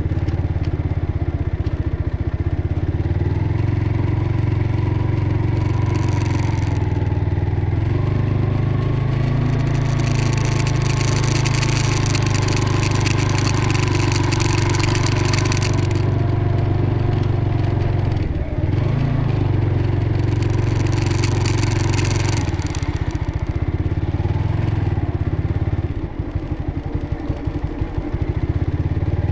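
Motorcycle engine running while riding, its note slowly rising and falling over a loud low rumble. There are stretches of loud hiss near the middle.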